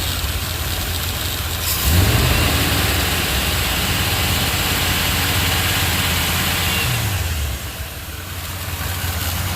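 1955 Chevy's engine idling, revved up about two seconds in, held for about five seconds, then dropping back to idle. The engine is worn out and has a quiet lifter noise, by the owner's account.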